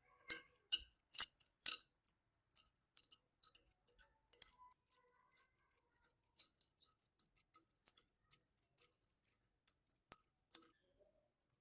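Irregular sharp scrapes and clicks of a hand tool working on rusty metal. They come thick and loud in the first two seconds, then thin out into scattered light ticks, with a few stronger ones again near the end.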